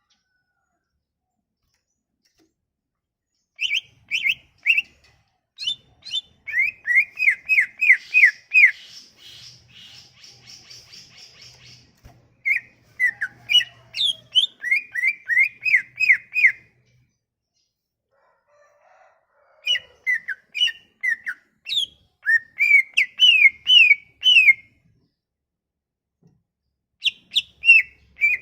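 A songbird singing a lure song meant to set a silent cucak ijo (greater green leafbird) singing: phrases of quick, repeated, high, down-slurred whistled notes, with a buzzy chattering stretch in the middle, broken by pauses of a few seconds.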